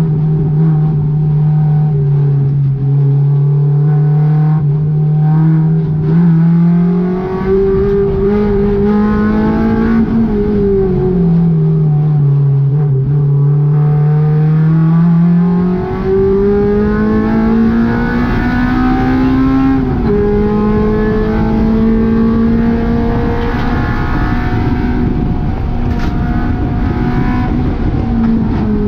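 Honda K20 four-cylinder engine in a GTI being driven hard on a race track, its pitch climbing steadily under acceleration and then jumping or dropping sharply at the gear changes, several times over. Road and tyre noise run underneath.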